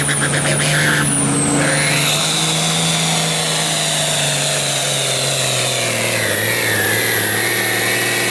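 Hot Farm class pulling tractor's diesel engine running hard under load during a pull, its pitch sagging somewhat after about five seconds, with a high whine over it that rises about two seconds in and then slowly falls.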